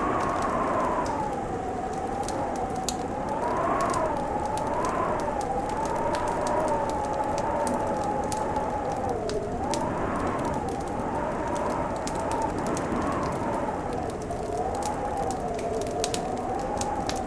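Wind howling in a wavering whistle that slowly rises and falls in pitch over a steady rush. A wood fire crackles with scattered sharp pops.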